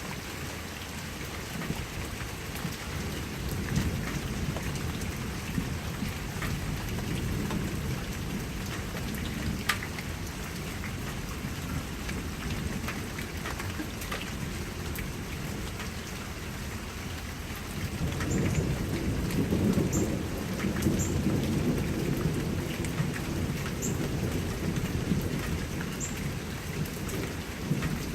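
Steady rain with drops pattering on surfaces, under low rolling thunder. A fainter rumble builds early on, and a longer, louder roll of thunder comes about two-thirds of the way through.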